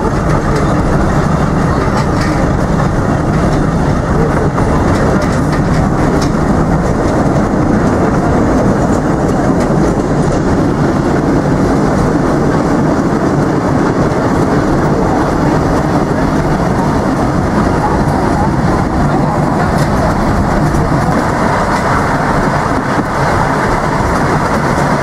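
Narrow-gauge forest railway train running steadily, heard from an open-sided passenger coach: the continuous rumble of the coach's wheels on the track.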